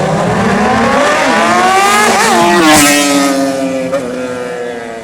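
Sport motorcycle accelerating hard past, its engine note climbing steadily and loudest as it goes by nearly three seconds in, then dropping in pitch and fading as it moves away.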